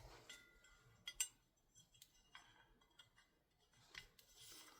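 Small metal airsoft rifle parts being handled during upper receiver reassembly: a few faint, scattered clicks and clinks, with two sharper clicks close together about a second in.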